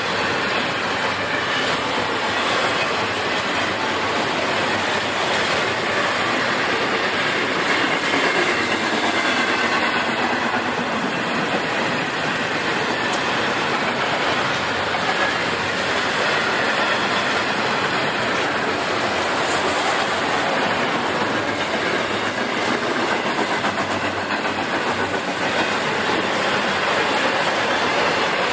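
A train rolling past, its cars and wheels on the rails making a steady, unbroken noise.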